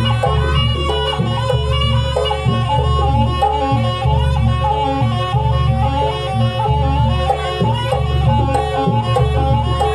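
Live traditional Banyuwangi dance music: a wavering high melody line over drums and a deep, repeating bass beat.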